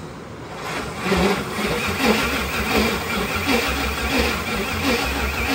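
Starter cranking the supercharged 5.4-litre V8 from a Ford Lightning, kicking in about a second in with a rhythmic pulsing. This is the first start attempt on a basic Holley Terminator X wizard tune.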